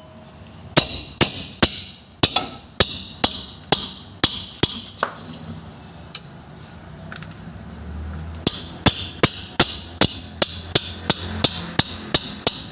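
Repeated sharp metallic knocks with a short ring, about two a second, from tools being worked on the rear axle hub. They come in two runs with a pause between them.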